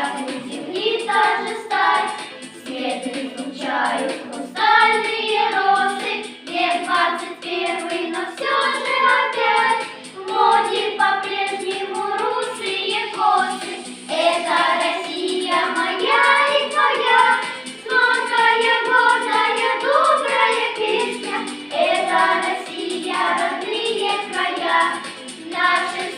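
A children's vocal group singing a song together.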